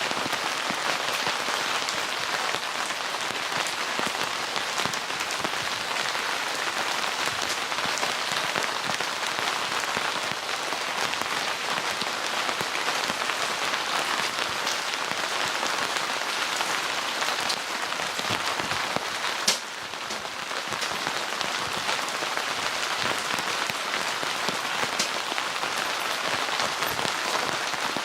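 Steady rain falling, a dense even hiss with many individual drop ticks. A single sharp click about two-thirds of the way through is followed by a brief dip in the rain sound.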